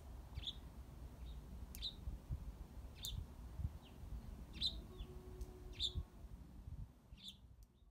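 A bird chirping: short, sharp single chirps repeated roughly every second, over a faint low rumble. The sound fades out near the end.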